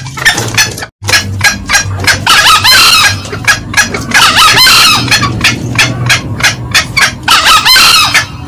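Green junglefowl, male and female, calling: a fast run of short cackling clucks with three louder drawn-out calls about two, four and seven seconds in. The sound cuts out briefly about a second in.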